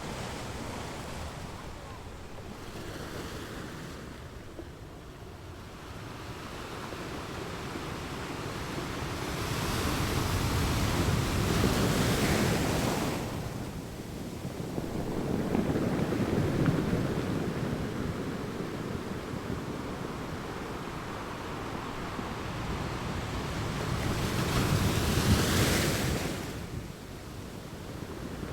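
Sea waves breaking on a beach, the wash swelling and falling back in slow surges; three larger waves crash, about a third of the way in, just past the middle and near the end.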